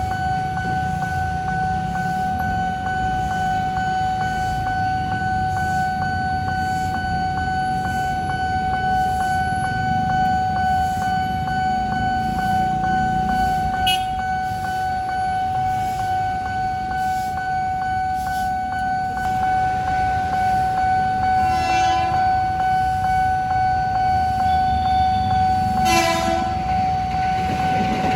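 Nippon Signal level-crossing alarm ringing steadily with a regular pulse while a train rumbles past. The train sounds its horn twice, short blasts about two-thirds of the way in and again near the end.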